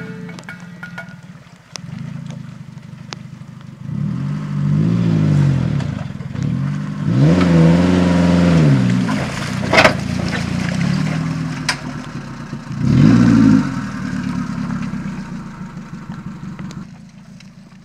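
Small pickup truck's engine revving up and dropping back in repeated surges as it labours through deep mud, with a sharp knock about ten seconds in.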